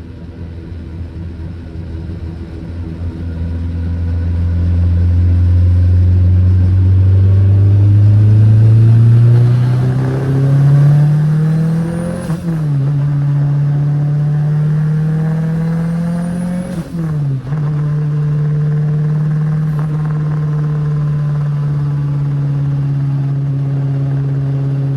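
Turbocharged Honda K20 four-cylinder (Precision 6262 turbo) in a 1991 Toyota MR2, accelerating through the gears. The engine note climbs steadily, drops at an upshift about twelve seconds in, climbs again, drops at a second upshift about five seconds later, then holds a steady note.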